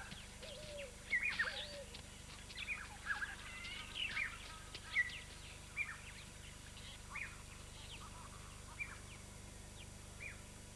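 Birds calling: a run of short, sharp calls, several a second at first and thinning out after about five seconds, with a few lower, curved calls in the first two seconds.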